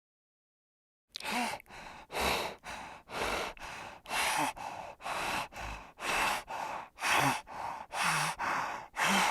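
An animal breathing hard and rhythmically, noisy breaths about twice a second, louder and softer in turn, starting about a second in.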